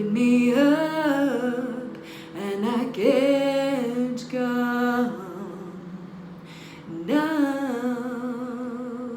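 Music: a solo voice singing wordless phrases, three held notes that glide and waver, over a steady sustained low note.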